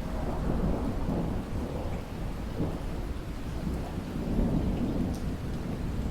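Thunder rumbling low and long over steady heavy rain; the rumble swells in at the start and keeps rolling.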